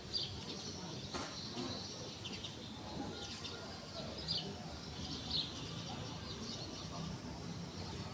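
Small birds chirping in short, slightly falling calls every second or so, over a steady background hiss, with a few faint clicks.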